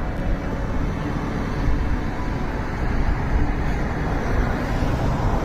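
Steady low rumble of road traffic, with a faint steady hum.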